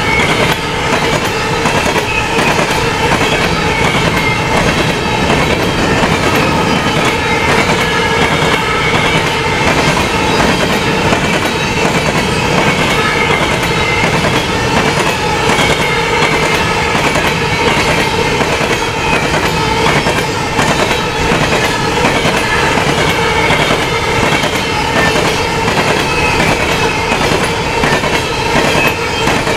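Freight cars of a CP potash train rolling past at speed, the wheels clicking in a steady, fast rhythm over the rail joints, with a steady ringing tone from the wheels and rails running over it.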